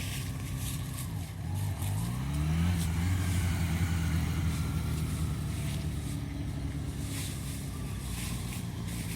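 Motorcycle engine running at low revs, then revving up about two seconds in and holding a steady higher speed.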